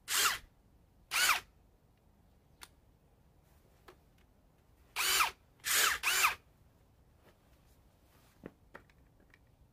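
Cordless Ryobi impact drivers with paddle bits fitted, given short trigger pulls so the motor spins up and winds straight back down without driving. There are four brief spins: two in the first second and a half, and a close pair about five seconds in. A few light clicks come near the end.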